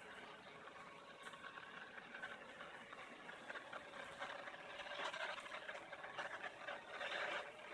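ILIFE robot vacuum cleaner running, a steady whir from its suction motor and brushes, growing somewhat louder about five seconds in.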